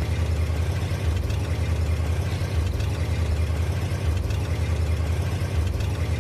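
Cartoon vehicle engine sound effect: an engine running steadily, low-pitched with a fast flutter.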